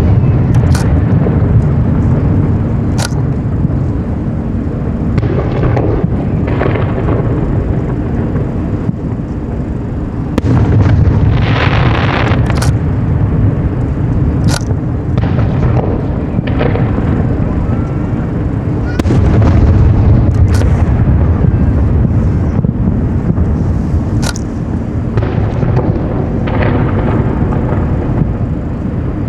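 Aerial fireworks bursting overhead: a continuous deep rolling rumble of shell bursts, with sharp cracks every few seconds. Louder barrages begin about ten seconds in and again about nineteen seconds in, the first with a crackling hiss.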